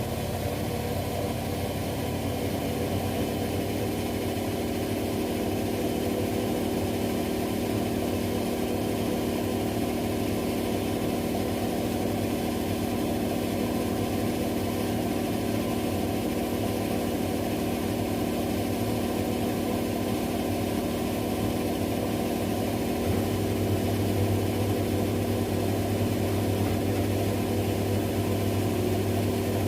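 Two washing machines, an LG with the Centum system and a Zanussi, running together in their spin cycles: a steady mechanical hum with several held motor tones. About 23 seconds in, the low hum grows louder.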